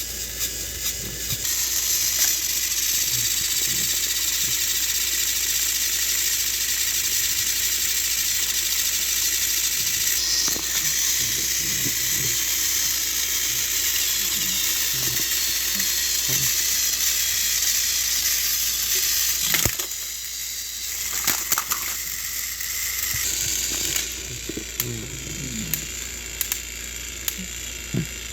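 Battery-powered Trackmaster toy train motors whirring steadily, with small clicks from the wheels and gears on plastic track. The whir drops about two-thirds of the way through, and scattered clicks and knocks follow over a quieter whir.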